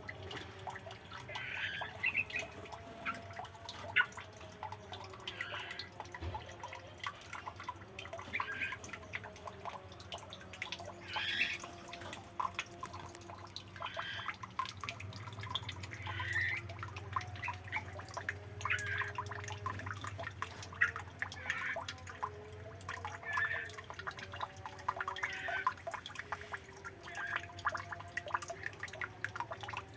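Birds in an aviary chirping: short calls every one to two seconds, amid many faint ticks.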